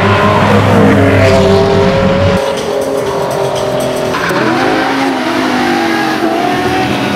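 Supercar engines revving, their pitch rising and falling. The sound changes abruptly about two and a half seconds in and again about four seconds in, as one clip's audio cuts to another.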